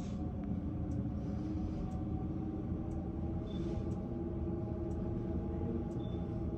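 A steady low mechanical rumble with a constant hum, and faint ticks about once a second.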